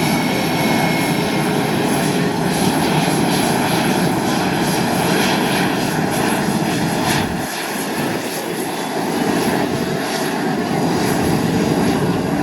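Engine of an airshow aircraft flying its aerobatic routine, a loud steady noise that dips briefly about seven and a half seconds in.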